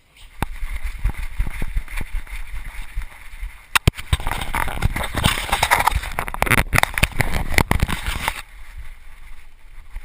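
A GoPro worn by a dog, jostled as the dog moves: repeated knocks and low rumbling on the camera, with a louder rushing noise from about four seconds in until a little past eight.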